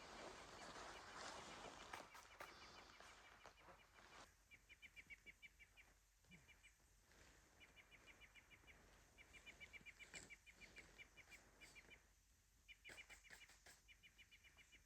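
Faint bird call: bouts of rapid, evenly repeated high pips, about nine a second, over a quiet background hiss.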